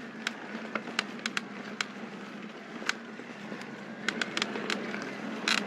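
Mountain bike rolling over a rocky dirt trail: steady tyre noise with scattered sharp clicks and rattles from the bike and loose stones, a few more coming close together near the end.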